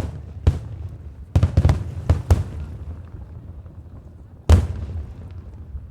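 Firework shells bursting: a bang at the start and another half a second later, a quick run of about five bangs a second or so later, and the loudest bang about four and a half seconds in, with a low rumble carrying on between them.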